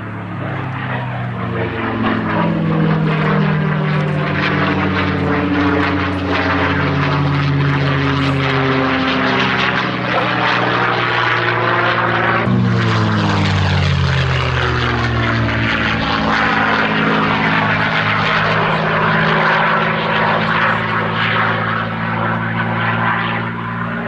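P-51D Mustang's Merlin V12 engine at full display power as the fighter flies by. The note slides up and down in pitch as it manoeuvres, and falls away steadily just past halfway as it passes.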